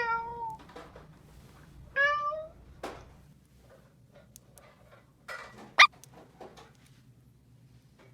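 Two short cat meows about two seconds apart, followed by a few light clicks and one sharp tap.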